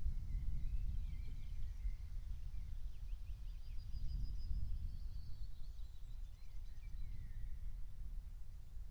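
Wild birds singing faintly in short chirping and trilling phrases, over a low, uneven rumble that is the loudest sound throughout.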